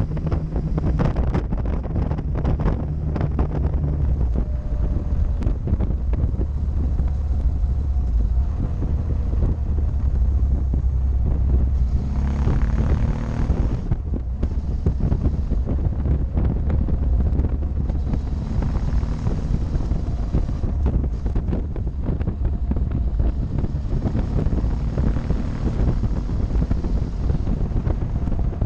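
Wind rumbling and buffeting on the microphone of a motorcycle in motion, over the low drone of the motorcycle's engine. The engine pitch rises and falls a few times with the throttle.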